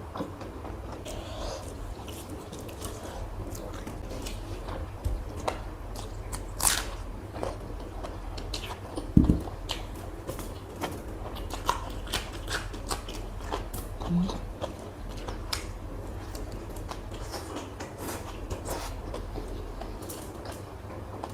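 A person chewing and biting food close to the microphone, with irregular small clicks and mouth sounds over a steady low hum. A louder thump comes about nine seconds in.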